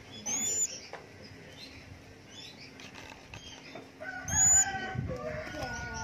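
Sharp, high chirps from a young caged mantenan bird, one shortly after the start and another about four seconds in. A rooster crows in the background in the second half, over some low rustling.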